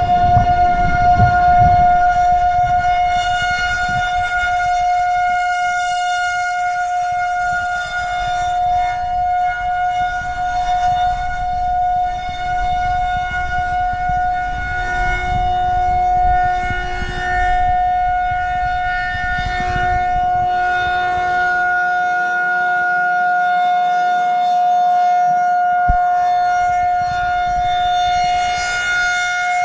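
Outdoor warning siren sounding a loud, steady single-pitch tone with a rich set of overtones, holding its pitch without winding up or down.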